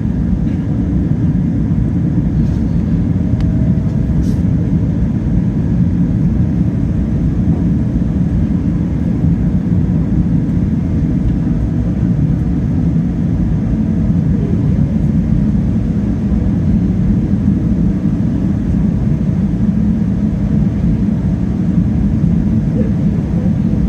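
Steady, loud low rumble inside the cabin of a Boeing 777-300ER with its GE90-115B engines running, no change in level.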